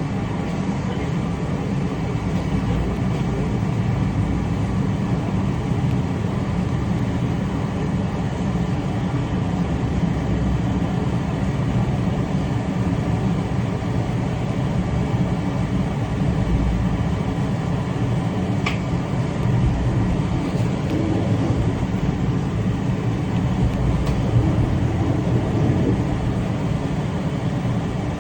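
Train running at speed: a steady rumble with one brief sharp sound about two-thirds of the way through.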